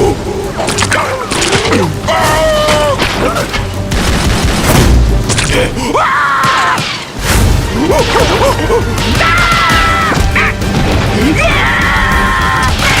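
Cartoon soundtrack: short, high, squeaky character vocal sounds without words, with sliding pitch, mixed with hit and crash sound effects over background music.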